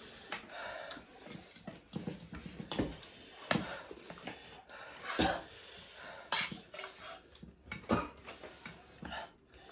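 Utensils clinking and knocking against dishes: about seven separate knocks spread unevenly through, with quieter handling between.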